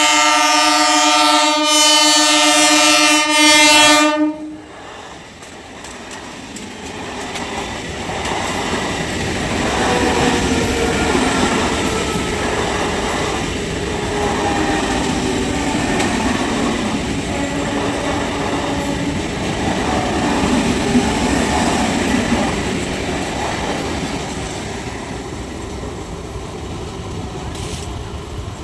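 Horn of a Medha ICF EMU local train held in one long, loud blast that cuts off about four seconds in, followed by the train running past on the rails, its noise building for several seconds and fading near the end.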